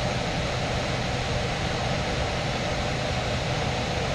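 Air handler's variable-speed blower running at high speed during an electric heat-strip test: a steady rush of air with a low hum underneath.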